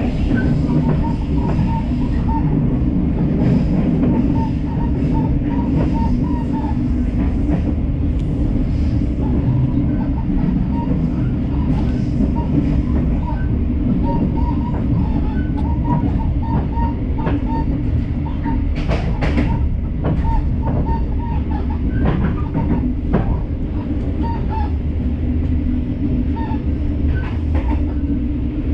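Passenger train running at speed, heard from inside the carriage: a steady low rumble of wheels on rail with scattered sharp clicks from the track, a brief cluster of them about two-thirds of the way through.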